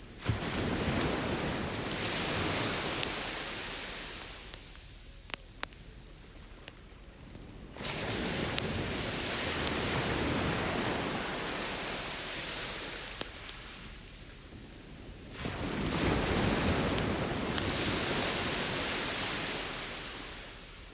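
Ocean waves breaking three times, each surge coming in fairly suddenly and fading over several seconds. Between and over them, a campfire gives scattered sharp crackles and pops.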